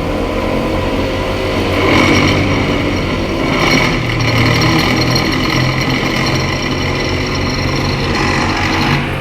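Diesel engine of heavy road-repair machinery running steadily, with a higher-pitched whine laid over it from about two seconds in until near the end.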